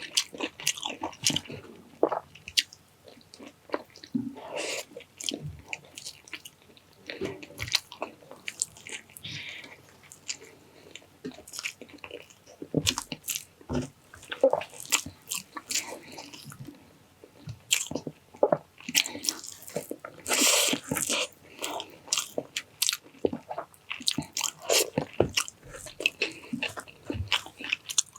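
A person eating close to the microphone: chewing and biting tender stewed pork cheek and rice, with wet mouth sounds and irregular small clicks. About twenty seconds in comes one longer, louder noisy sound.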